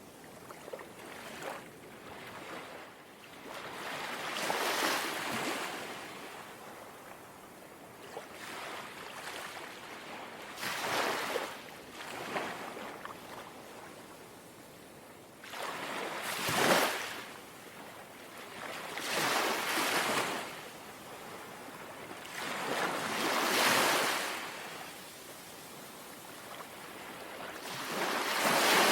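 Small, gentle sea waves lapping at the shore, about six washes that each swell and fade away, one every three to six seconds.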